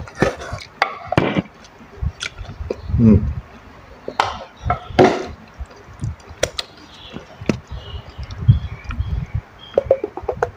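A person chewing food close to the microphone: wet mouth sounds and soft low thumps, with several loud crisp crunches in the first half.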